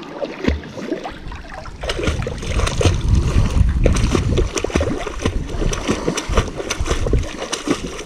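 Water splashing and sloshing close by, irregular and continuous, growing louder about two seconds in.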